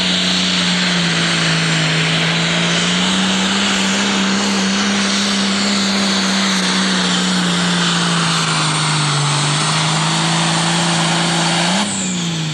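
Pro Stock pulling tractor's turbocharged diesel engine running flat out under load, its pitch wavering slightly. Near the end the pitch falls and the sound drops off as the throttle is cut at the end of the pull.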